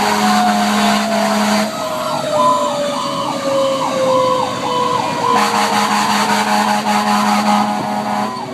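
A fire engine's Federal Q2B mechanical siren winding down in a long, slow falling whine. For a few seconds in the middle, an electronic siren sounds over it in short repeated sweeps. Under both runs a steady low drone that drops out while the sweeps sound.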